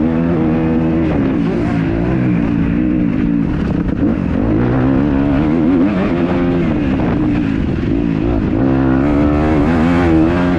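Kawasaki KX250F four-stroke single-cylinder motocross bike engine being ridden hard, its pitch repeatedly rising and falling as the throttle opens and closes.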